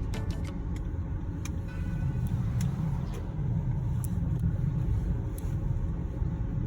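Steady low rumble of a car on the move, heard from inside the cabin: engine and tyre noise while driving on a snowy road, with a few light clicks scattered through.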